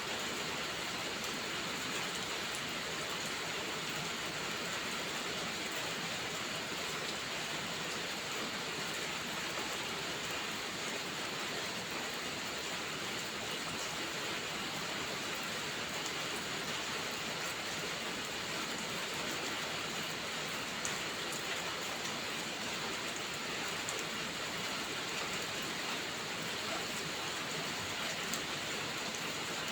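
Steady rainfall, an even hiss with scattered faint drip ticks throughout.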